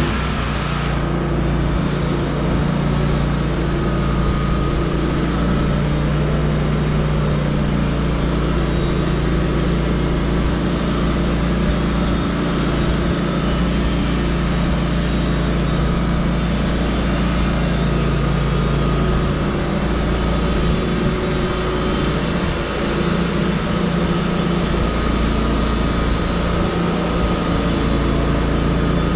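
A heavy machine's engine running steadily at constant speed, with no revving or cutting.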